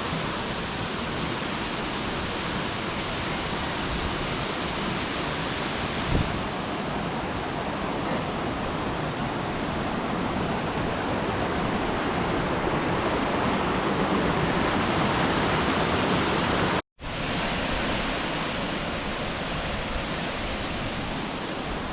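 Steady rushing of a tall waterfall, its water falling into the pool below, with a brief cut to silence about three-quarters of the way through.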